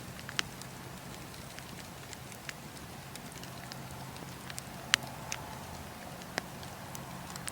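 Wood campfire burning: a steady low hiss of the flames with scattered sharp crackles and pops from the logs and embers, the loudest about five seconds in.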